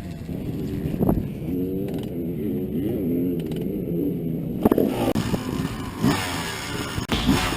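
Yamaha YZ250 two-stroke dirt bike engine revving on the track, its pitch rising and falling through the throttle, with a couple of sharp knocks.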